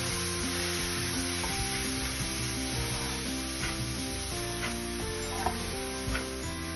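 A chopped nut and seed mixture sizzling in a wok while a metal spatula stirs and scrapes through it. A few sharp ticks from the spatula striking the pan come in the second half.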